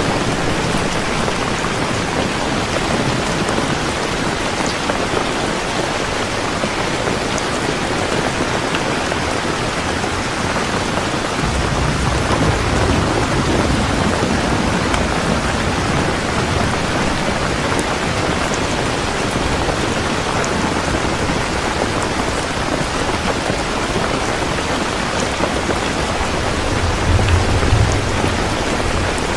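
Heavy rain falling steadily as a dense hiss, with low rolls of thunder rumbling underneath, one building about a third of the way through and another near the end.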